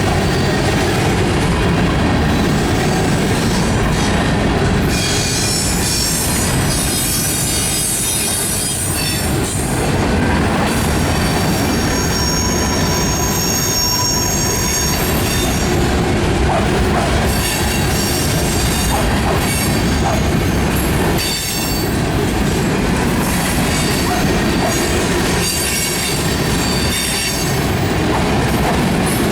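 Railroad cars of a passing train rolling by with a steady rumble and clickety-clack, the wheels squealing in high thin tones that come and go, most strongly in the middle and again near the end.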